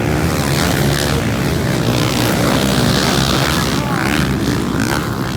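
Motocross bike engines running at high revs as the riders race, the pitch rising and falling with the throttle.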